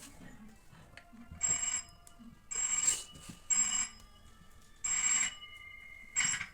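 An electronic telephone ringtone sounds in five short rings about a second apart, each a cluster of steady high tones.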